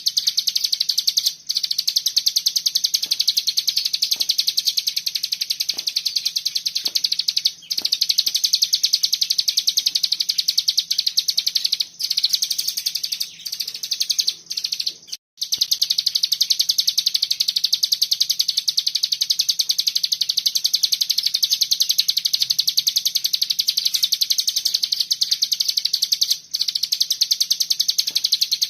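A ciblek gunung (a prinia) singing a continuous, very fast, high-pitched buzzing trill, the dense 'bren' song used as masteran for cage birds. It breaks off only briefly a few times, with the longest break about fifteen seconds in.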